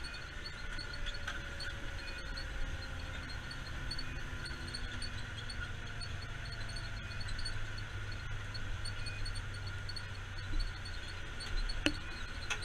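Steady low drone of a fire engine's engine and road noise heard from inside the cab, with a single sharp click near the end.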